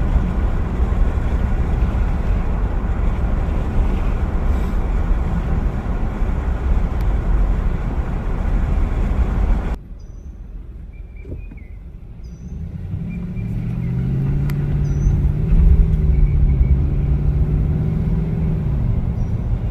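Car driving: steady road and wind noise, cut off abruptly about ten seconds in. After it, quieter outdoor ambience with a few faint bird chirps, then a low engine hum with a wavering pitch builds up near the end.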